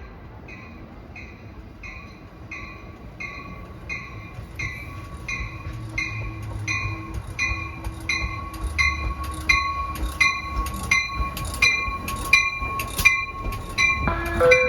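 Train bell ringing steadily, about one and a half dings a second, growing louder over a swelling low rumble as a train comes in.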